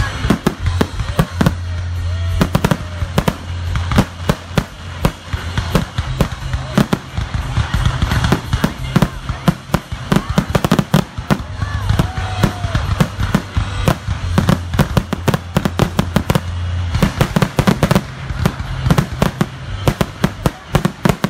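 Fireworks display: aerial shells bursting in rapid, overlapping bangs and crackles, many a second, with music playing underneath.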